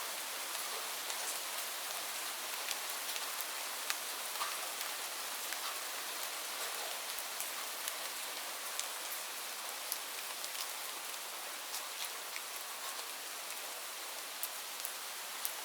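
Steady rainfall: an even hiss of rain with individual drops ticking sharply here and there.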